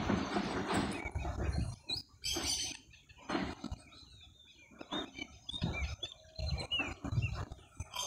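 Rustling handling noise for the first second and a half, then scattered short bird chirps, with a few low thuds between them.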